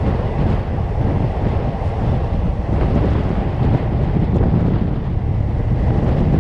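Steady rush of wind buffeting the microphone over the running noise of a passenger train moving at speed, heard from beside the coach.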